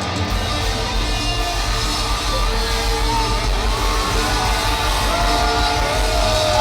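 Live hard rock band playing at full volume, a low bass note held under the music, with the crowd yelling and singing along, their voices growing stronger in the second half.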